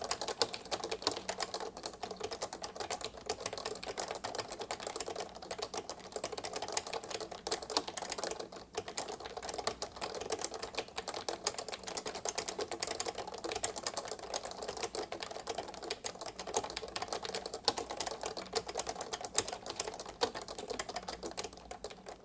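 Fast continuous typing on a 1984 Maxi-Switch XT keyboard with Maxi-Switch rubber-dome switches and low-profile keycaps: a dense run of short, light key clacks, with a brief pause about halfway, cutting off at the end.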